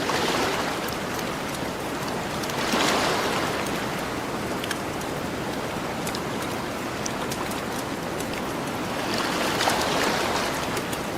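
Ocean waves washing onto a shore over a steady surf wash, swelling three times: at the start, about three seconds in, and near the end. Small sharp crackles of a campfire are scattered throughout.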